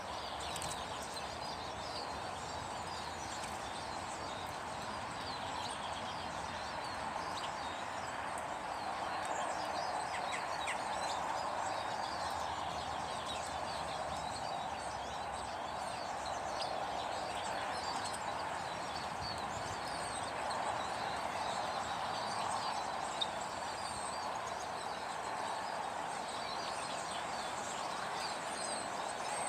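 Small garden birds chirping and twittering, many short calls scattered throughout, over a steady background rush.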